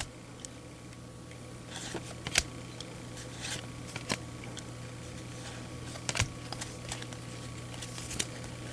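Baseball trading cards handled by hand as a pack is flipped through, making short soft clicks and rustles every second or two over a steady low hum.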